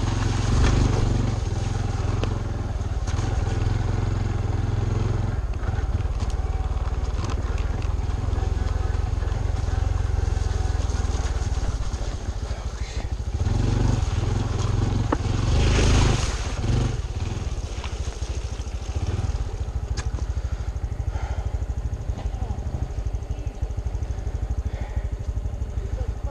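Honda CT125 Trail 125's single-cylinder engine running under way on a rough trail, swelling louder twice, near the start and a little past halfway, with a few sharp knocks from the ride.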